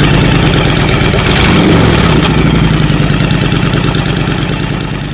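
Honda Fury's 1300cc V-twin idling steadily through aftermarket DG hard chrome exhaust pipes. The sound fades out near the end.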